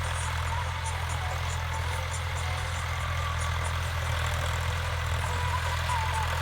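Tractor's diesel engine running steadily at an even, low rumble.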